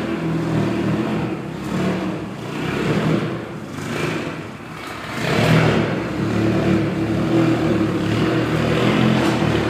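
Volkswagen Golf R's turbocharged four-cylinder running through a GT Haus Meisterschaft GTC aftermarket exhaust at low revs, with several short swells in throttle, the biggest about five and a half seconds in, before holding a steadier note.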